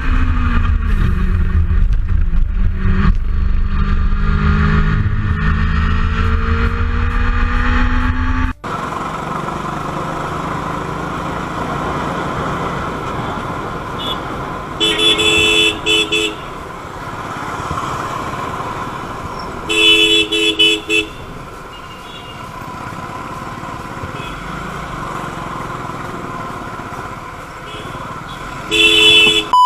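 A motorcycle engine running with its pitch rising and falling. After a sudden cut comes steady road traffic noise, with a car horn honking in short two-tone blasts three times.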